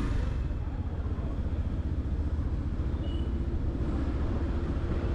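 Yamaha FZ-X 149 cc single-cylinder motorcycle being ridden at a steady pace, its engine and the road noise heard as a steady low rumble.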